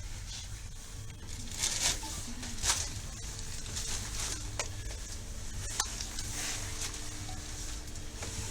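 Inside a funicular railway car: steady low rumble and faint electrical hum, with short rustling noises and a sharp click about six seconds in.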